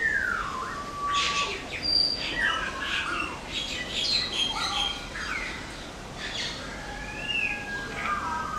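Parrots calling: a busy run of squawks, chirps and whistled calls that glide up and down in pitch, with a falling call at the very start and a longer held whistle near the end.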